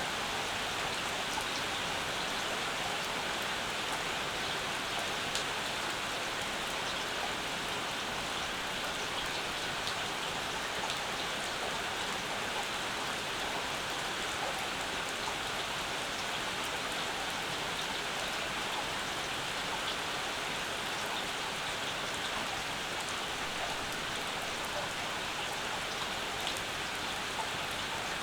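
Steady summer rain falling, with many individual drops ticking close by through an even hiss that does not change in strength.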